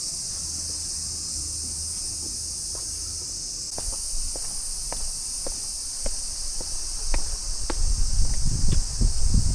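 Steady high-pitched insect chorus shrilling, starting abruptly. From about four seconds in, irregular sharp clicks join it, and a low rumble rises near the end.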